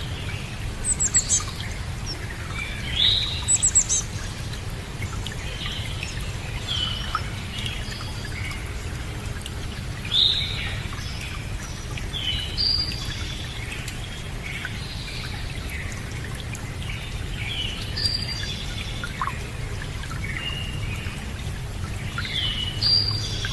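Several birds chirping and calling, with short bright calls and trills every few seconds, over a steady background of running water.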